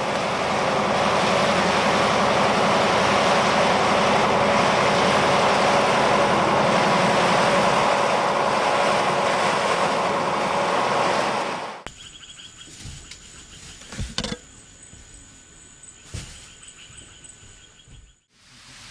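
A motor running steadily under loud, even noise. About twelve seconds in it cuts off sharply to a much quieter stretch, with a thin high steady tone and a few short knocks.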